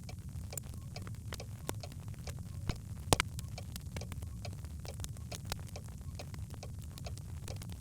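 Birch logs crackling in a fireplace: scattered pops and snaps over a low steady rumble, with one sharper pop about three seconds in.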